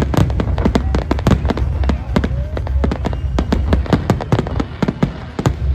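Fireworks display going off: a dense, irregular string of sharp bangs and crackling pops over a steady low rumble.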